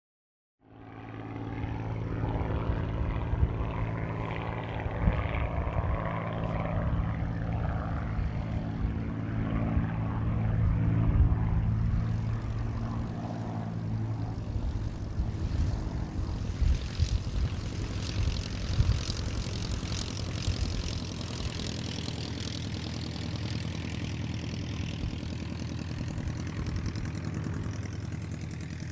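Supermarine Spitfire Mk VIII's Rolls-Royce Merlin V12 engine and propeller running with a steady low note, growing loudest about ten seconds in; from about thirteen seconds the low note breaks up and a higher hiss comes in.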